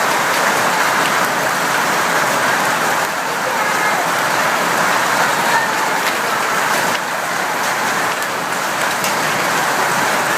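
Hailstones falling hard in a storm, a dense, steady hiss of countless small impacts with no let-up.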